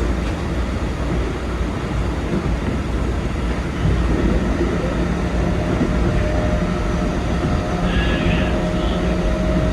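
Keikyu 2100 series electric train running, heard from the driver's cab: a steady rumble of the running gear, growing louder about four seconds in as steady motor tones come in and hold.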